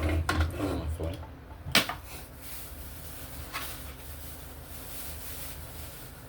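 Kitchen handling sounds while cooking: a sharp click or knock about two seconds in and a lighter one later, over a steady hiss from the stove or the simmering pot.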